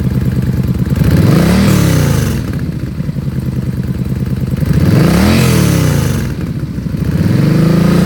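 2014 Yamaha Stryker's 1300cc liquid-cooled, fuel-injected V-twin idling and revved twice, each blip rising and falling back to idle, then revved up again and held higher near the end.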